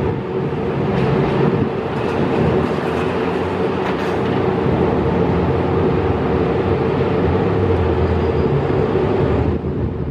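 Steady vehicle rumble with a held mid-pitched tone, cutting off abruptly near the end.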